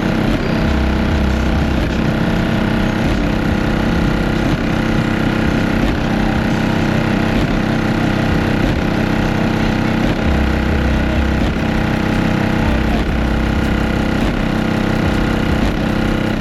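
A car audio system playing bass-heavy music at high volume, with the subwoofers' deep bass notes surging in and dropping out every few seconds over a steady dense din.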